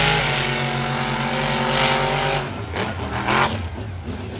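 Monster truck engine held at high revs, its pitch steady, then dropping off about two and a half seconds in. A couple of short, loud bursts of noise follow near the end.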